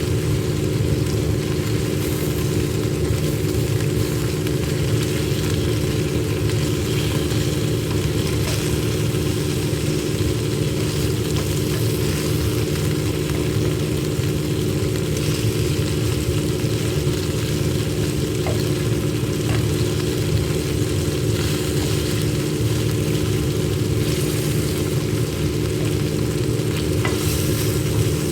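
Chicken sizzling as it cooks on a grill, over a steady low hum, with a few faint clicks.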